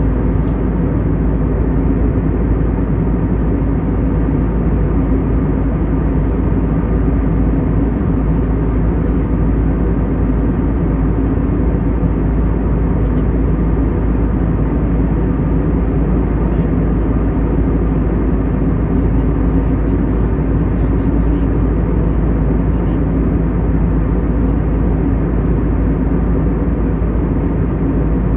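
Steady cabin noise inside a jet airliner at cruise: an even drone of engines and rushing air past the fuselage, with a few faint steady hums in it.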